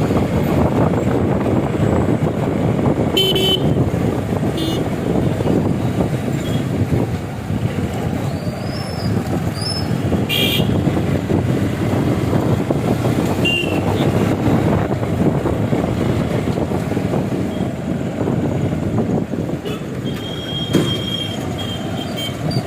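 Wind and road rumble from a motorbike ride through traffic, with several short vehicle horn toots scattered through, and a longer horn tone near the end.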